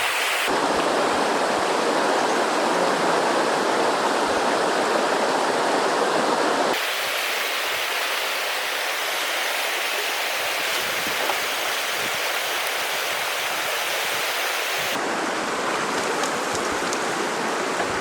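Steady rush of a flowing river. Its tone shifts abruptly about half a second in, again near seven seconds and again near fifteen seconds.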